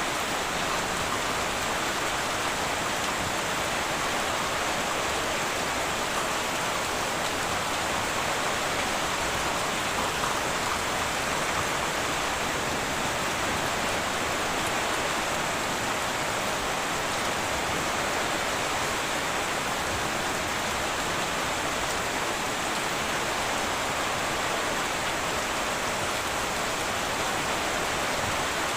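Heavy rain falling steadily on a tin roof, an even dense hiss of drops with no thunder.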